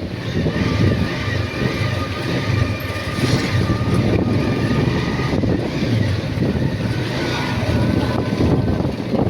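Steady road noise from a moving motorcycle: engine and rushing air, with faint steady whining tones higher up.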